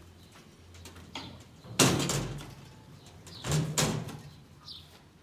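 Two loud slams about a second and a half apart, the second a quick double hit, each dying away over a fraction of a second. Faint bird chirps follow near the end.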